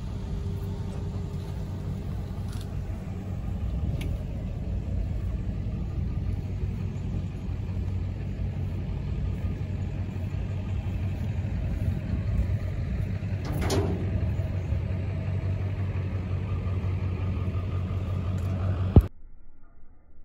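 Car engine idling with a steady low rumble, no revving, with a short sharp click partway through; the sound cuts off suddenly about a second before the end.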